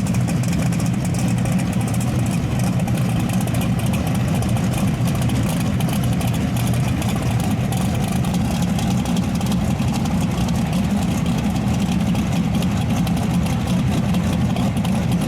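Drag racing car's engine idling steadily, a low rumble with no revving.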